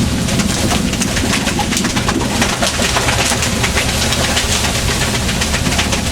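Fishing boat's engine running steadily at sea, under a constant rush of wind and water, with irregular sharp clicks and splashes on top.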